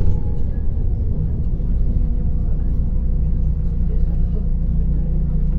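MAZ-105 articulated city bus under way, heard from inside the passenger cabin: a steady low engine and road rumble with a faint steady whine, the engine note shifting about a second and a half in.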